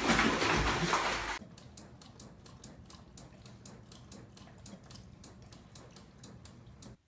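Water splashing in a bathtub with a dog in it for about the first second and a half. After a cut, a dog licks at a refrigerator's water dispenser: a quiet, quick, even clicking, about five clicks a second.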